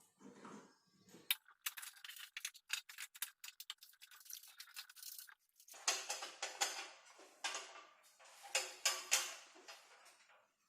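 Close handling noise from work on electrical wiring: a run of fast small clicks and crackles, then several seconds of scratchy rubbing.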